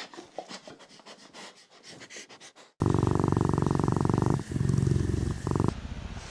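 A puppy growling: faint clicking for the first few seconds, then about three seconds in a loud, low, rapidly pulsing growl starts abruptly, with a short break partway through.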